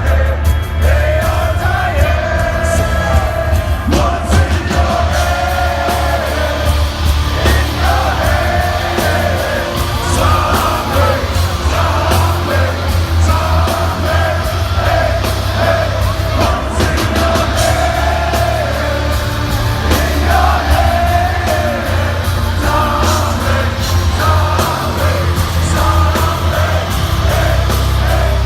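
Heavy metal band playing loud, with a sung melody over heavy bass throughout.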